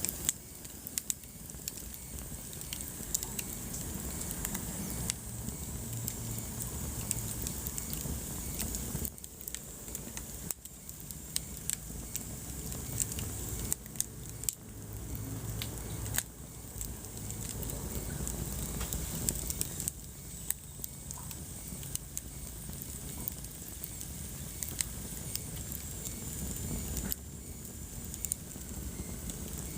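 Wood fire burning in a fireplace: a steady low rumble of flames with frequent sharp crackles and pops from the logs.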